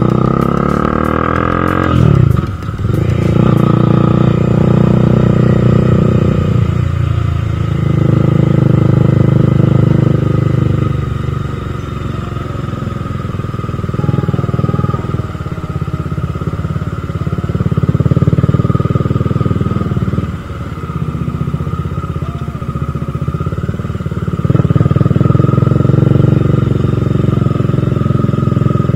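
Bajaj Dominar 400's single-cylinder engine under way at speed: the engine note climbs over the first two seconds, then drops sharply about two and a half seconds in. It then runs in alternating louder and softer stretches as the throttle is opened and eased.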